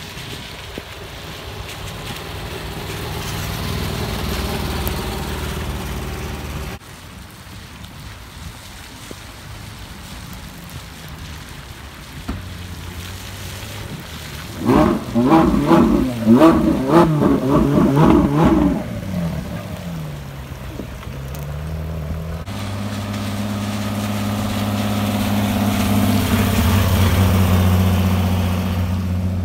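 Sports car engines running as the cars pull away slowly on wet tarmac. The loudest part is a Ferrari V8 revving hard several times in quick succession about halfway through.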